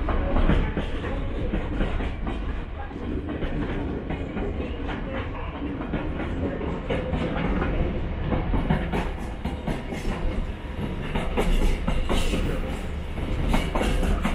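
Freight train of container wagons rolling past: a steady low rumble with wheels clacking over rail joints, the clacks sharper and more frequent in the second half.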